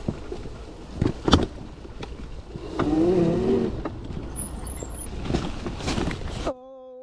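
Modified electric pit bike ridden over a rough dirt trail: a steady rush of wind and tyre noise with sharp knocks over bumps about a second in, and a short wavering tone near the middle. The sound cuts off suddenly near the end.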